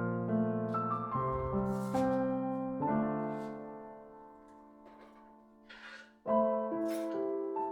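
Slow background piano music: notes and chords struck and left to ring and fade, with a louder new chord about six seconds in. A few brief, faint noisy sounds come through between the notes.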